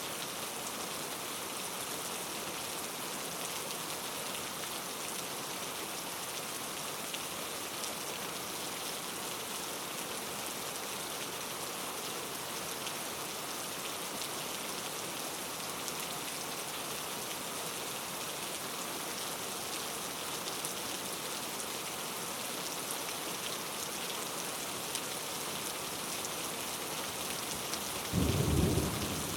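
Steady rain falling on a surface, with one sudden low thunderclap rumbling near the end.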